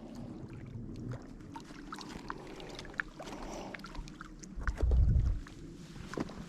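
Quiet outdoor background with scattered small clicks and knocks, and a low rumble lasting about a second about five seconds in.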